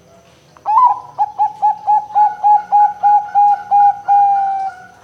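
Zebra dove (perkutut) singing its cooing song. It opens with a rising note, runs into about a dozen quick, even coos at about four a second, and ends on one longer, slightly falling note.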